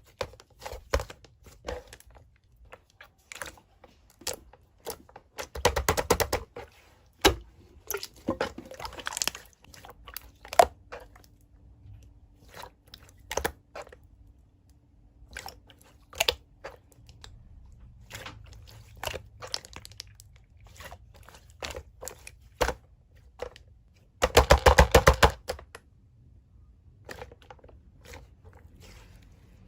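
Close-up crunching and crinkling: irregular crisp clicks and crackles, with two dense rattling flurries, one about six seconds in and one near the end.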